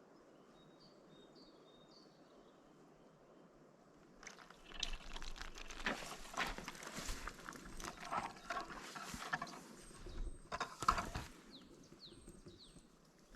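A few faint bird chirps, then, about four seconds in, a run of rustling, crackling and knocking that lasts several seconds.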